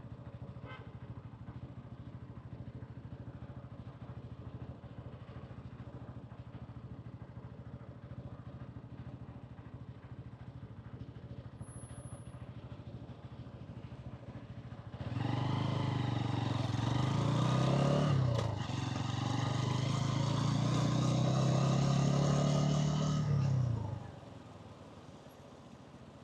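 A 125cc motorcycle engine and exhaust idle steadily. About fifteen seconds in, the throttle opens and the engine revs up loudly, dipping briefly in pitch a few seconds later before climbing again. After about eight seconds the throttle closes and the engine sound drops away to a quieter level.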